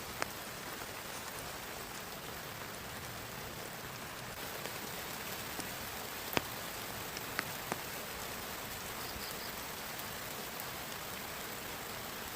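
Steady rain falling, with a few sharp single drops landing close by, the loudest about six seconds in. Faint short high chirps come in once near the end.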